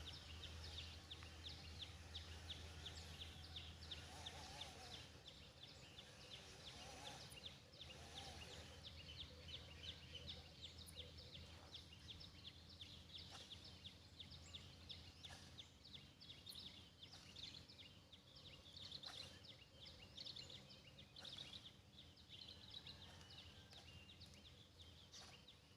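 Faint outdoor ambience: a rapid run of high chirps, several a second, thinning out after about fourteen seconds, over a low steady hum.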